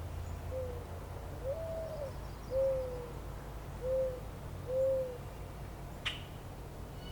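A bird calls a phrase of five low hooting notes, the second longer and higher than the others. A short sharp click sounds about six seconds in.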